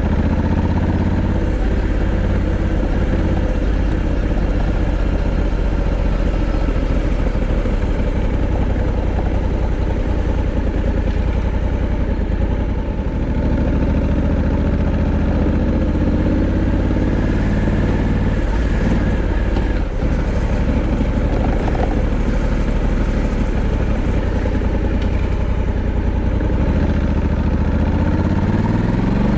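Honda Africa Twin 1100's parallel-twin engine running steadily, its pitch dipping and rising briefly about two-thirds of the way through and again near the end.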